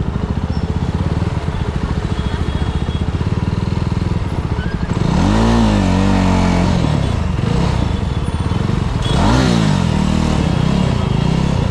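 Motorcycle engine running at low speed with a steady, fast beat, then blipped up in revs and dropping back, about five seconds in and again about nine seconds in.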